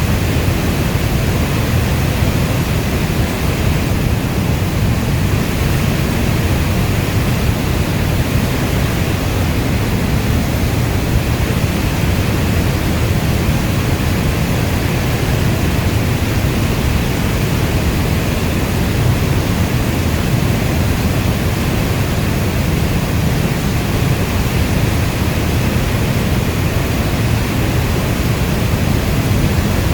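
Steady heavy rain, a dense even rush weighted toward the low end, with no single drops or thunder standing out.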